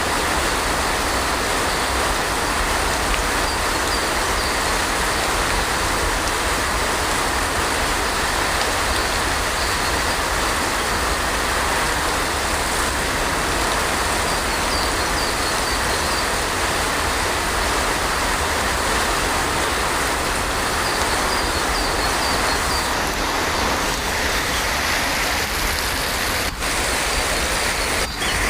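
Heavy rain falling steadily, an even, dense hiss with two very brief dropouts near the end.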